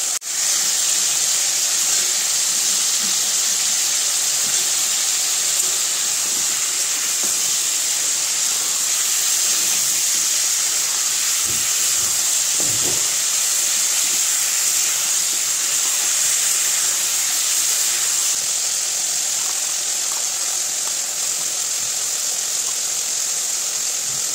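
Chicken pieces sizzling as they fry in hot oil in a metal pan, a steady hiss.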